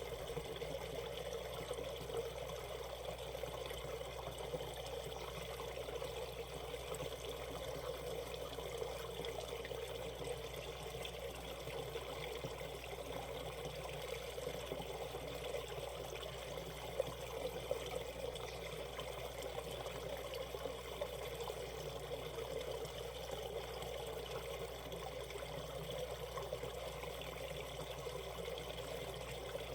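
Shallow valley stream water running over rocks, a steady trickling and gurgling flow, with a few brief louder splashes about halfway through.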